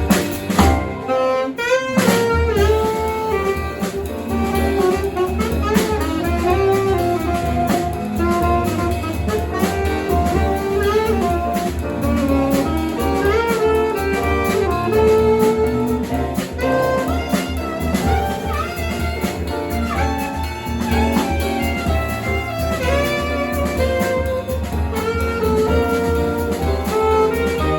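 Live jazz band playing: an alto saxophone carries the melody over piano, keyboard and a drum kit.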